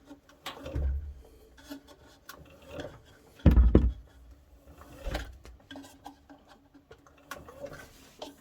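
Washing machine drum being turned by hand at its rear pulley with the power off: irregular rubbing and knocking, with one heavy low thump about three and a half seconds in.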